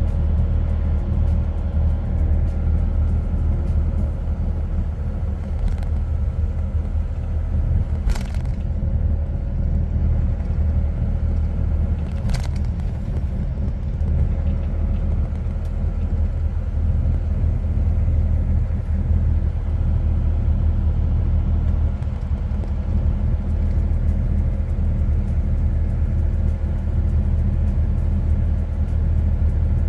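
Steady low rumble of a truck on the road, engine and tyre noise running evenly. Two brief sharp knocks come about 8 and 12 seconds in.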